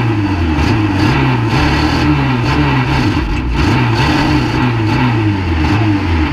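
Unlimited banger racing car's engine heard from inside its stripped cabin, revving up and falling back again and again as the driver works the throttle.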